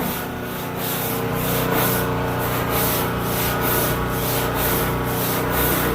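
Brisk, rhythmic scrubbing of the floor of a refrigerated truck with a brush, back and forth about two to three strokes a second, over a steady mechanical hum.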